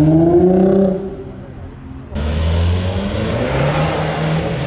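Car engine revving, its pitch rising for about a second before dropping away. About two seconds in an abrupt cut brings in another car engine running loud, with a rushing hiss over it.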